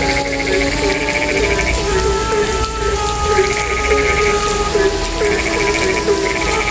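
A night chorus of frogs calling: many short croaks overlap without a break. A higher, pulsing trill about a second long comes back every couple of seconds.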